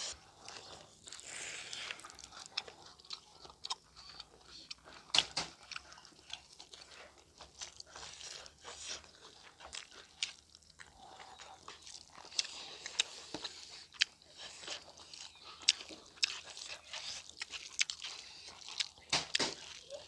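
A person chewing and biting food close to the microphone, eating mukbang-style. The sound is a run of irregular sharp clicks and mouth smacks, with louder bites about five seconds in and near the end.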